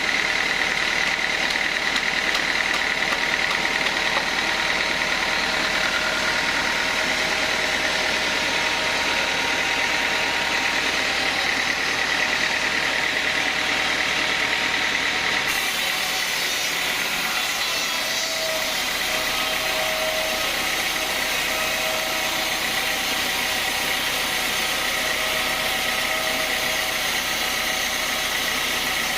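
Sawmill band saw machinery running steadily, a constant hum with a high whine; the sound changes slightly about halfway through.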